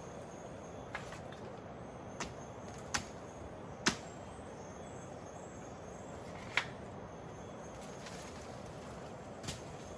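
Six sharp knocks at uneven intervals, the loudest about four seconds in and again past six seconds, over a steady background hiss.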